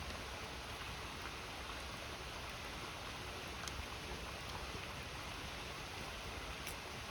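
A river flowing steadily with a wood campfire crackling, two sharp pops standing out about halfway through and near the end.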